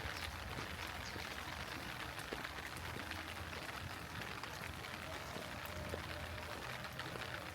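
Steady heavy rainfall, an even hiss with many separate drop ticks landing close by.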